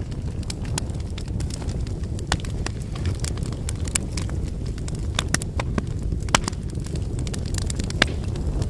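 Wood fire burning: a steady low rumble with irregular sharp crackles and pops from the burning logs, the loudest pops coming about six and eight seconds in.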